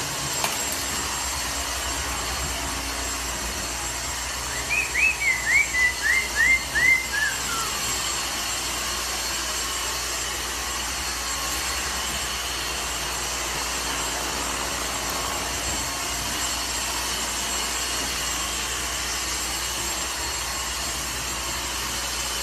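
A parrot gives a quick run of about seven short whistled chirps, the last one gliding down in pitch, about five seconds in. A steady hiss runs underneath.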